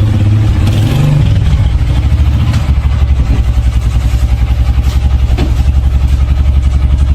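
A motor engine running steadily with a low, fast, even throb.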